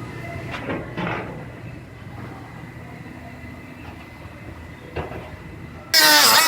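Low, steady shop rumble with a few light knocks, then near the end a power tool suddenly starts, loud, with a high whine that dips and then holds, as the sheet-metal quarter panel is trimmed back to the scribe line.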